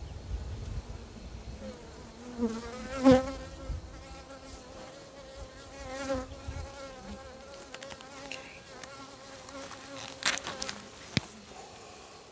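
Honey bees buzzing around an open hive, with one bee holding a steady buzz close by for most of the time. A few sharp clicks come about three seconds in, the loudest, and twice more near the end.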